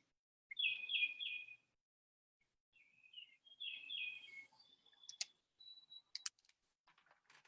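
A songbird singing faintly: three quick repeated chirps, each dropping in pitch, then a second run of chirps a couple of seconds later. A few sharp clicks sound near the end.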